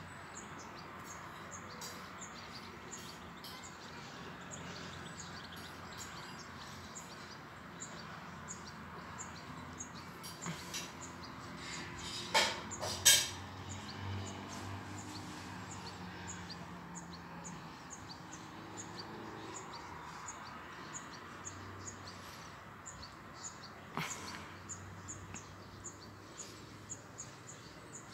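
Small birds chirping again and again over a steady faint outdoor background. A few sharp knocks cut in a little before halfway, with a smaller one later on.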